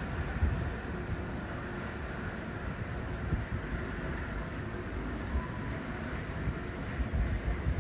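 Steady rushing wind and sea noise aboard a cruise ship under way, with wind buffeting the microphone in irregular low thumps.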